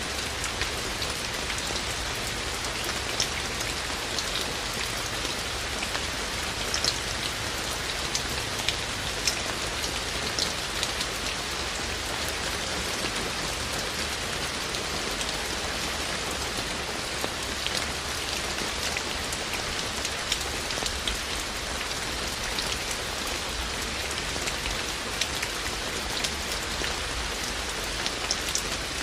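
Steady rain falling, with scattered louder individual drops striking close by.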